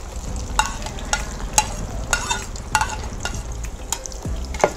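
French fries frying in hot oil in an electric frying pan: a steady sizzle broken by frequent sharp pops and crackles of spitting oil.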